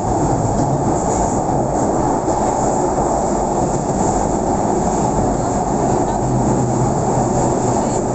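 Merseyrail electric train running at speed through a tunnel, heard from inside the carriage: a steady, loud rumble of wheels on rails with a low hum that comes and goes.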